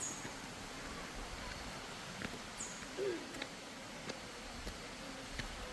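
Outdoor natural ambience with a steady hiss. A short, high animal call falls in pitch, repeating every few seconds, and there are scattered light clicks.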